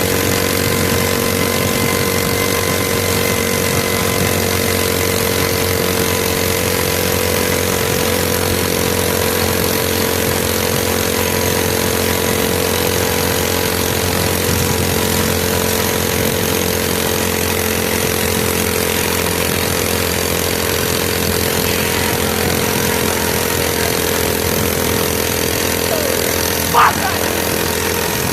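Mini bike's small engine running at a steady, unchanging pitch. A short, sharp, louder sound breaks in near the end.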